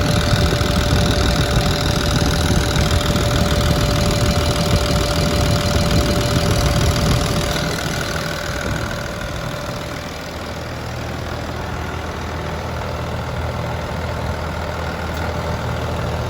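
Diesel engine of a Bomag BW226DH-4i single-drum roller running steadily, then dropping to a quieter, lower running speed from about eight seconds in.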